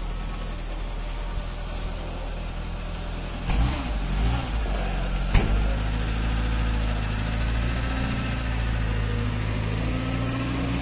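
1976 Murat 124's four-cylinder engine idling steadily, with a brief rev about three and a half seconds in. A single sharp click comes shortly after.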